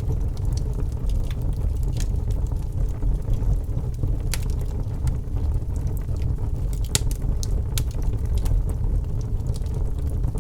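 Wood fire burning in a fireplace: a steady low rumble of the flames with scattered sharp crackles and pops, a few of them close together about seven seconds in.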